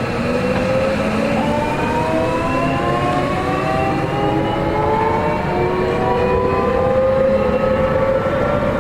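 Seibu 40000 series electric train's Toshiba VVVF inverter and permanent-magnet traction motors whining under power. Several tones rise slowly together in pitch as the train gathers speed, over the rumble of the wheels on the rails.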